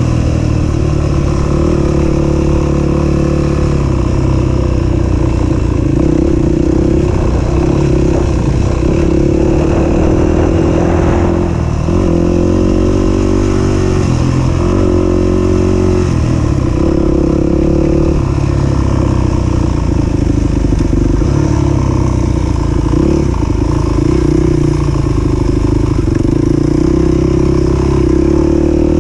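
250 cc single-cylinder four-stroke dirt bike engine running under load off road, its pitch rising and falling again and again as the throttle is opened and closed.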